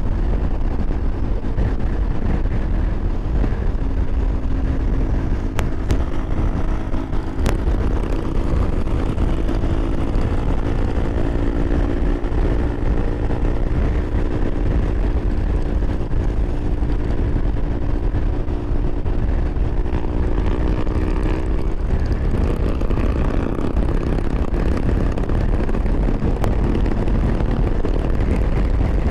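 Harley-Davidson Road Glide riding at freeway speed: heavy wind rush and road noise over the V-twin engine. A droning tone holds through the middle stretch, edges slightly higher in pitch, and cuts off about 22 seconds in.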